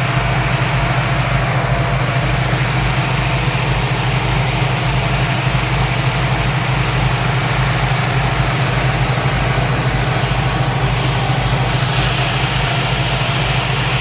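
Speedboat engines running steadily under way, heard on board as a constant low drone with a steady hiss above it.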